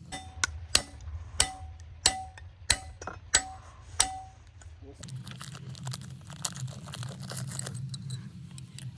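A hammer striking metal on an engine part about seven times at an even pace, each blow leaving a short metallic ring; after about five seconds the strikes stop and a steady low hum takes over.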